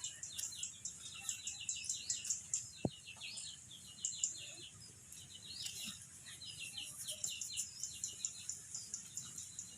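Birds chirping in rapid high-pitched series, thinning out briefly around the middle, with one short click a little under three seconds in.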